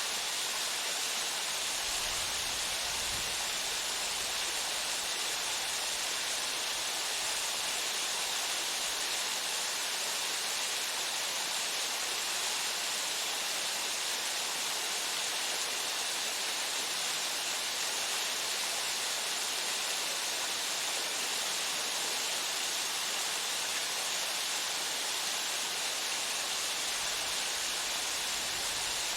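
Waterfall pouring steadily: an even, unbroken rush of falling water, mostly high hiss with little low rumble.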